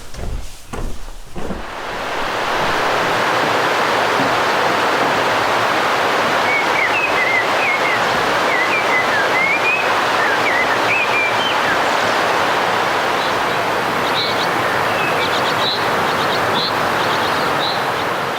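Steady rush of running water, with a few knocks before it swells up about two seconds in. A bird chirps repeatedly through the middle, and higher chirps come near the end.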